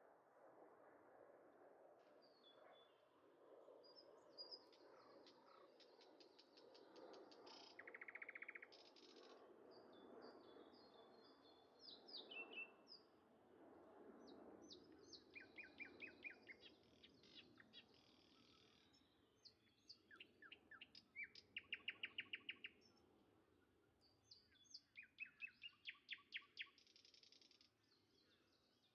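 Faint birdsong: several birds chirping and giving rapid trills, with the loudest runs of trills about two-thirds through and again near the end, over a faint steady background hiss.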